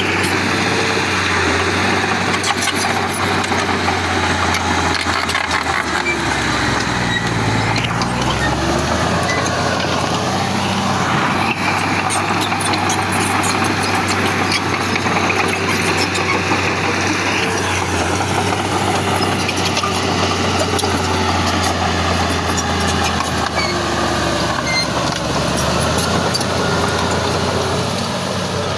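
Heavy diesel earth-moving machinery running steadily under load, its low engine note dipping and shifting in pitch about seven seconds in, then settling again.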